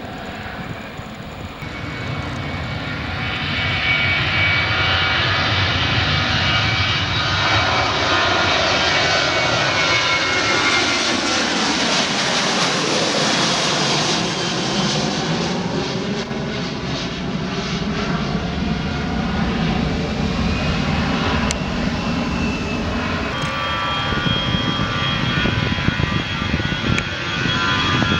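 Takeoff of a Boeing 737-700's CFM56 turbofans: jet noise swells over the first few seconds, then stays loud, with a slow sweep in tone as the jet passes. Near the end another jet airliner, an Airbus A320, takes over with a steady high whine over its engine noise.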